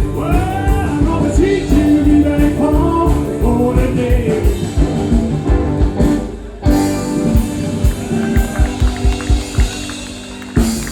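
Live rock-and-roll band playing with a singer over a steady drum beat. About six and a half seconds in the singing stops after a sudden loud hit, and the band carries on with drum beats and held notes, with another hit near the end.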